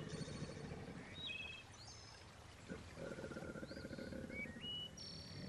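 Faint outdoor ambience: running water with several short whistled bird calls, some stepping up in pitch.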